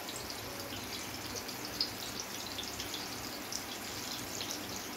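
Mutton gola kababs shallow-frying in a little oil over low heat: a steady sizzle with many small crackles, and one louder pop about two seconds in.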